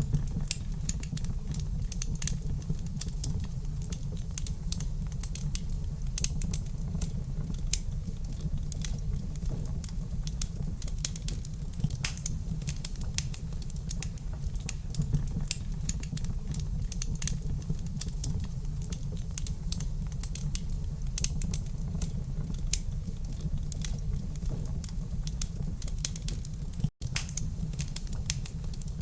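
Wood fire in a fireplace crackling, with irregular sharp pops and snaps over a steady low rumble of the flames. The sound drops out for a split second near the end.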